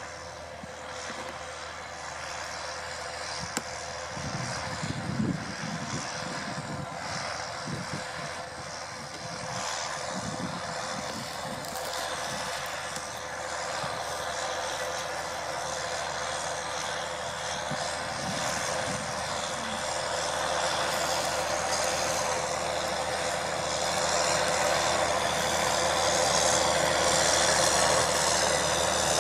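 John Deere 6930 tractor's six-cylinder diesel engine running under load while pulling a plough, getting steadily louder throughout.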